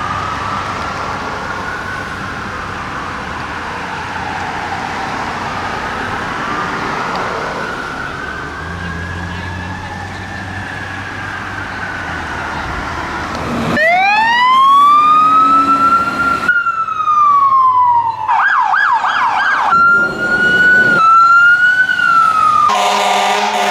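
Fire truck sirens. Distant wails drift up and down over engine and road noise, then about halfway through a loud siren starts up close: a rising wail, a falling sweep, a fast warble, then a quicker up-and-down pattern. A truck air horn blasts near the end.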